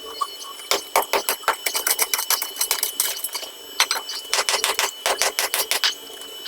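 Rapid, irregular clicking and clacking, several sharp knocks a second, in two runs with a short pause about three seconds in, over a faint steady high-pitched tone.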